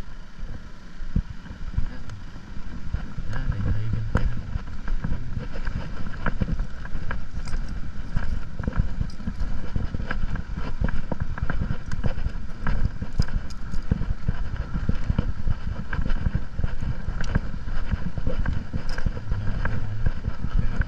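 Motorcycle riding noise picked up by a helmet- or bike-mounted action camera: a heavy, rumbling wind buffeting and road noise that grows louder about two seconds in.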